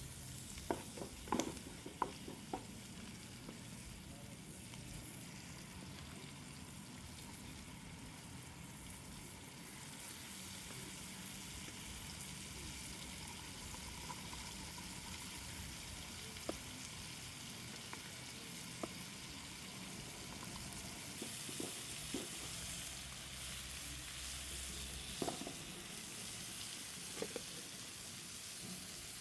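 Food frying and sizzling in a pan over the fire, with a utensil clinking against the pan as it is stirred: several clinks in the first few seconds, then a few scattered ones. The sizzle grows a little stronger about two-thirds of the way in.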